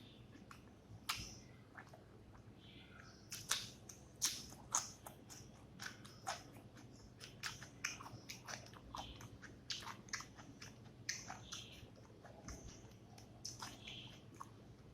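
A person chewing and eating a meal of rice and fish curry, with irregular wet mouth smacks and clicks, some of them sharper.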